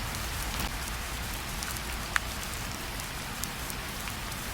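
Steady rain falling, with scattered drops ticking and one sharper drip about two seconds in.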